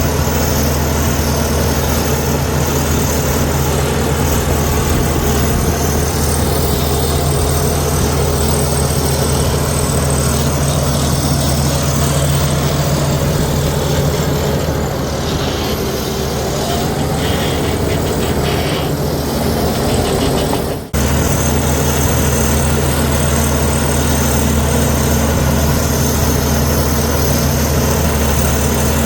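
Komatsu D61EX bulldozer's diesel engine running steadily at a low, even drone, with a brief dip about two-thirds of the way in where the sound cuts out for an instant.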